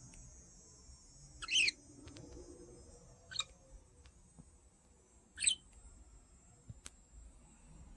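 Pet budgerigar giving three short chirps about two seconds apart, the first and last loudest.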